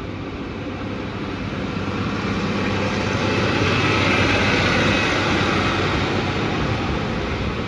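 Train passing through a station: a rushing rumble that swells to its loudest about four seconds in and then eases off.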